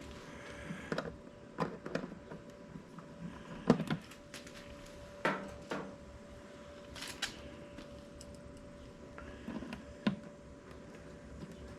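Irregular knocks and clicks of hand tools and small screws being handled while fitting hardware, about eight sharp strikes scattered through, with a faint steady hum underneath.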